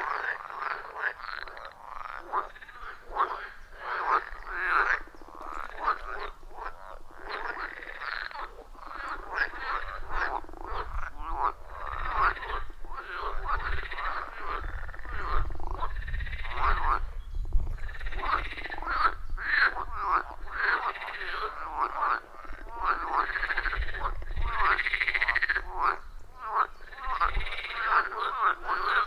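Chorus of many frogs calling over one another around a pond, a dense, unbroken mass of short rhythmic croaks.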